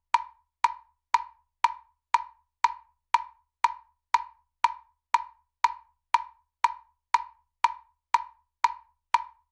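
Metronome clicking at a steady tempo, about two clicks a second.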